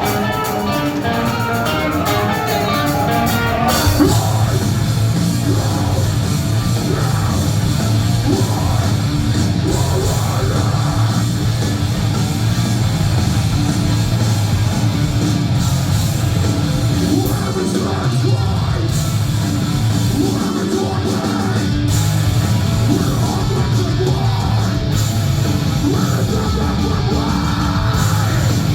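Heavy rock band playing loud distorted guitars and drums. About four seconds in, a lighter guitar passage gives way to the full band.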